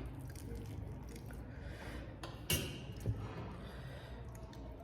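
Eating sounds from a pani puri mukbang: one sharp crunch about two and a half seconds in, then a smaller knock about half a second later, over a low steady room background.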